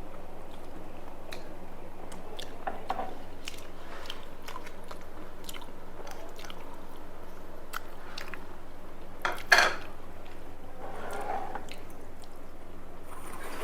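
A person eating rice and fried food: close-up chewing with small wet clicks and occasional crunches, and one louder crunch about nine and a half seconds in.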